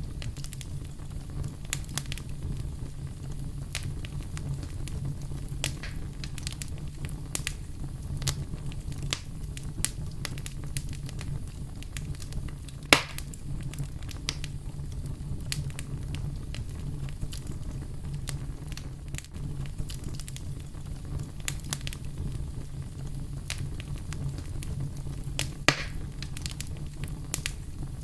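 Wood fire crackling, with irregular pops and snaps over a steady low rumble; one sharper pop comes about halfway through and another near the end.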